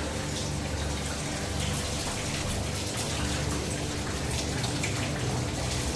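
Water dripping and running down inside a flooded tunnel: a steady patter of drops over a constant watery hiss.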